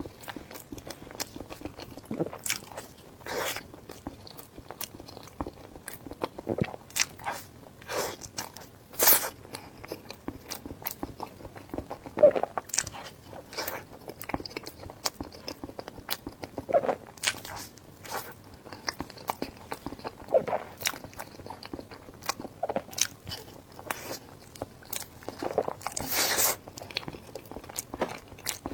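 Close-miked chewing and biting while eating spicy instant noodles: a steady string of short, wet mouth clicks and smacks, with a longer noisy mouth sound near the end.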